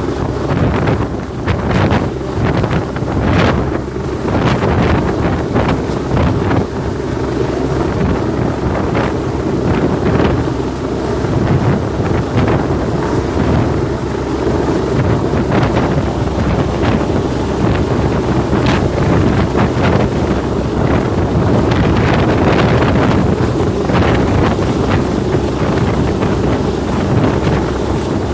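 Helicopter flying low, its steady rotor and engine noise mixed with heavy wind gusts buffeting the microphone.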